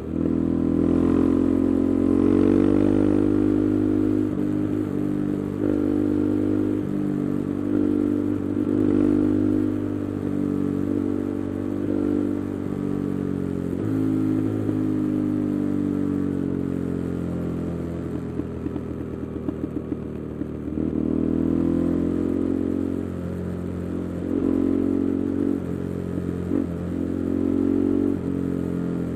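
KTM 390 Adventure's single-cylinder engine running through an Arrow aftermarket exhaust with the resonator removed, its revs rising and falling repeatedly as the bike is ridden through the gears. A rapid crackle comes through as the revs drop about two-thirds of the way in and again near the end.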